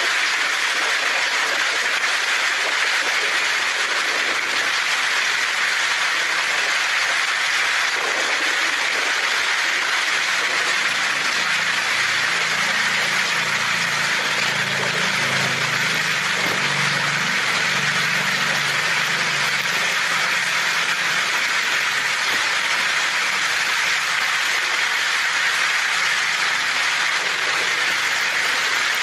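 Heavy rain drumming steadily on a tin roof as an even hiss, with a low rumble, like distant thunder, rolling through the middle for several seconds.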